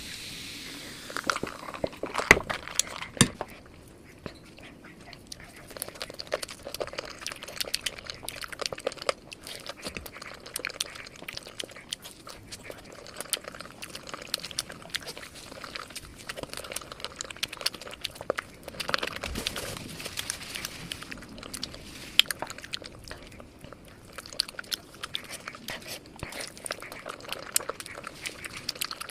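Close-miked chewing and biting of crispy fried chicken drumsticks: a steady run of sharp crunches and wet mouth sounds, with the loudest crunches about two seconds in and again about three-quarters of the way through.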